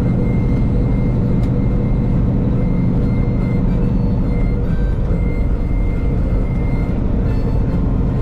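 Tractor-trailer's diesel engine running steadily while driving, heard from inside the cab.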